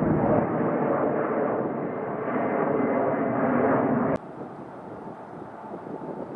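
Jet airliner engines running loud, as on a takeoff roll, with a faint steady whine among the noise. The sound cuts off abruptly about four seconds in, leaving a much quieter outdoor rumble.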